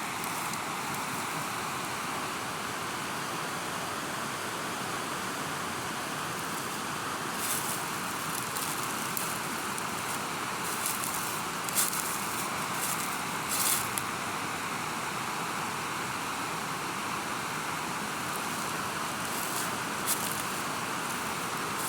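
River water rushing steadily, with a few brief sharper crackles of splashing in the middle and near the end.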